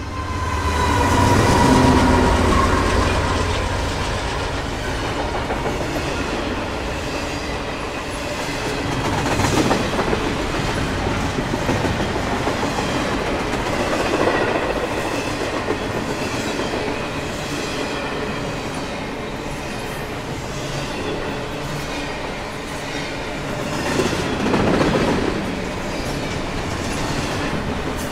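Freight train of double-stacked shipping containers passing close by: a steady rumble and clatter of the cars on the rails, loudest about two seconds in, swelling again around ten, fourteen and twenty-five seconds in.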